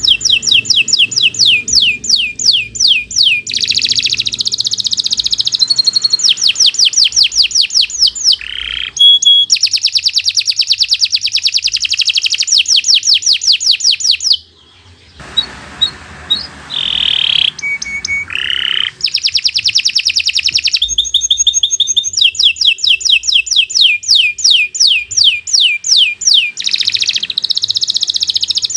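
Domestic canary singing a long, continuous song of rapid repeated trills, changing phrase every few seconds, with a brief pause about halfway through.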